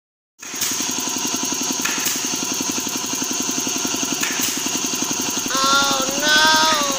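Belt-driven piston air compressor running, its electric motor and pump giving a steady rapid pulsing. Near the end, two short pitched sounds that bend up and down, like a voice, ride over it.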